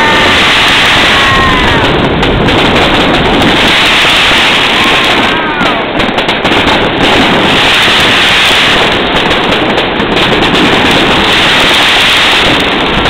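Fireworks going off in quick succession: dense, continuous crackling and popping, very loud throughout.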